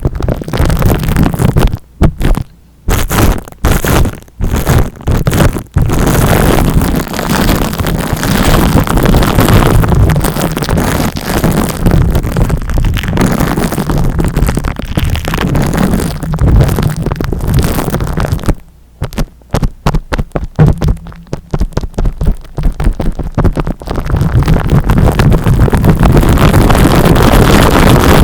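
Loud rubbing and scratching directly on the microphone, the close-up scalp-massage noise of an ASMR recording, broken by quick stop-start gaps several times and turning continuous near the end.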